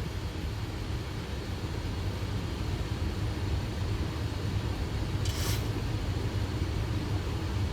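Steady low rumble of airflow and engines heard inside a Boeing 737 flight deck on final approach, with a brief hiss about five seconds in.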